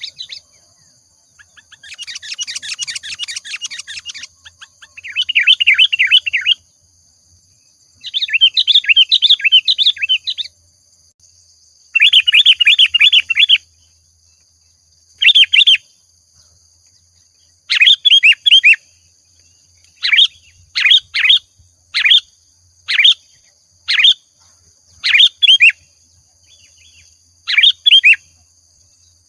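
Sooty-headed bulbul (kutilang) singing in bursts of rapid chattering chirps. The phrases last about two seconds in the first half, then give way to short calls roughly once a second.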